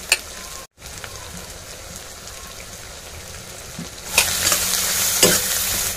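Vegetable and egg mixture sizzling in a hot wok, quietly at first. About four seconds in, the frying turns to a much louder, hissing sizzle as the mixture is stirred with a spatula, with a scrape or two against the pan.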